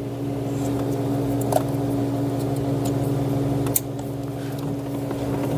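Steady low machine hum, with a few light clicks from parts being handled.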